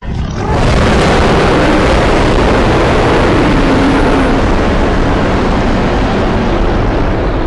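Custom designed monster roar sound effect: a loud, rough roar that starts abruptly out of silence and holds steady, with a faint low pitch sinking slightly in the middle.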